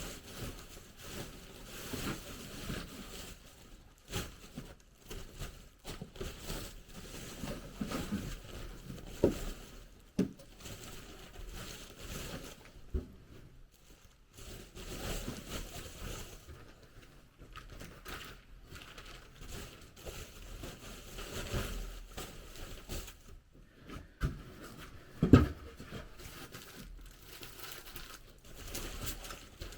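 Irregular rustling and crinkling with scattered short knocks, one sharp knock about 25 seconds in.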